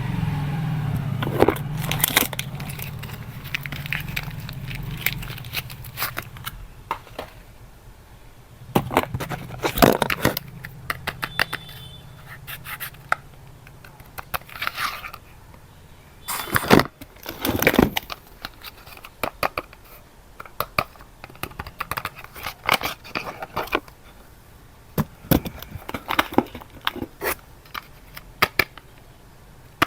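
Soap wrappers being torn open and crinkled as bars of soap are unpacked: irregular crackling and tearing, with scrapes and light taps and a few louder rustling bursts.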